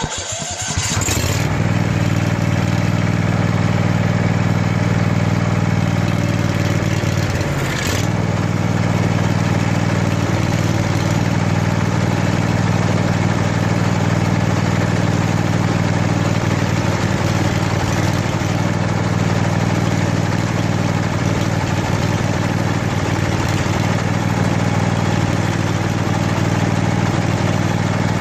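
Briggs & Stratton Vanguard 16 hp air-cooled V-twin ride-on mower engine running steadily with no air filter fitted.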